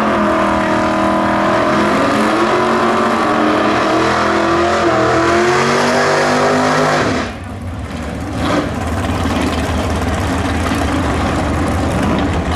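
Drag-racing muscle car engine revving loudly, its pitch rising and falling. About seven seconds in it cuts off abruptly, and a lower, steady engine rumble follows.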